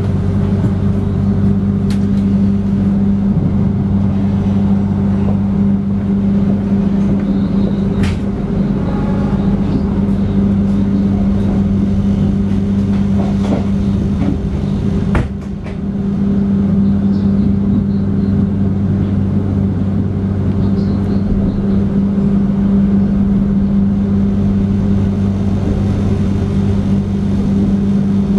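Steady drone heard inside a moving passenger train carriage, a constant low hum with a few sharp knocks at scattered moments.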